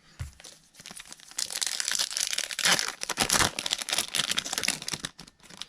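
A trading-card pack wrapper being torn open and crinkled by hand, a dense crackling that starts about a second in and goes on for about four seconds.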